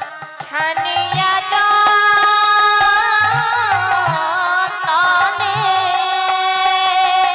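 Bengali kirtan singing: a woman's voice holding long, wavering notes, entering about a second in, over regular hand-drum strokes.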